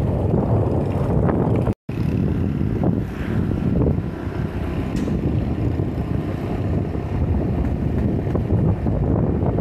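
Wind buffeting the microphone as a steady low rumble, cutting out for an instant about two seconds in.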